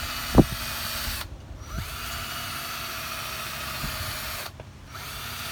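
Cordless drill spinning a fine-grit sanding disc against a plastic headlight lens, wet sanding. The motor runs steadily, stops briefly twice and spins back up each time, with one sharp knock about half a second in.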